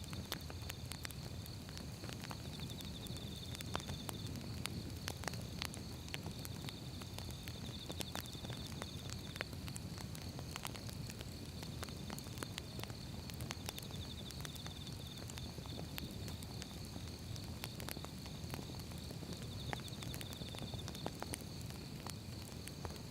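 Burning firewood crackling: irregular sharp pops and snaps over a low, steady rumble of flames. A steady high-pitched trill runs behind it.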